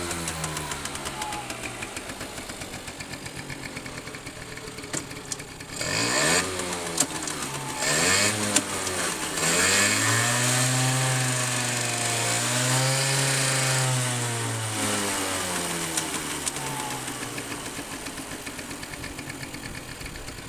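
The RC50's small engine running after its start check. Its revs settle down, then the throttle is blipped several times about six to nine seconds in. It is revved up and held twice for a couple of seconds each, then drops back to a steady idle.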